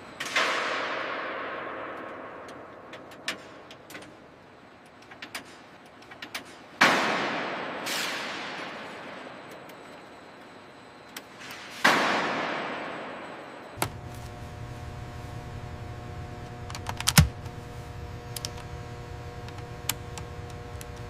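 Three sudden loud bangs about five seconds apart, each fading slowly with a long echo. About two-thirds of the way through, a steady machine hum starts, with scattered clicks and one sharp thump.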